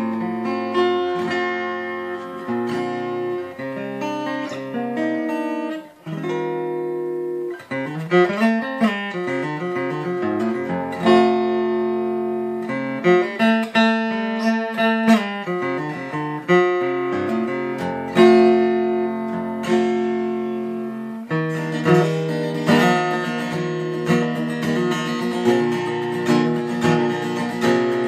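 Seagull Entourage Mini Jumbo Rustic acoustic guitar, tuned down a half step, played fingerstyle with picked notes and chords. The playing breaks off briefly about six seconds in, and later turns to fuller strummed chords.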